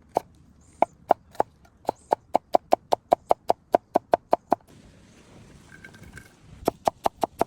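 A fork beating eggs in a bowl: quick, even, ringing taps about five a second. They pause about four and a half seconds in and start again near the end.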